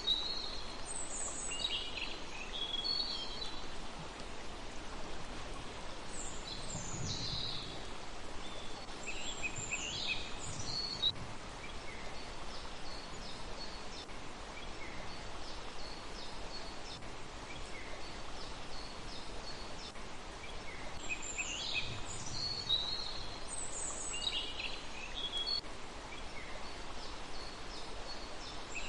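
Small birds chirping in short clusters of high, quick calls every few seconds over a steady background hiss.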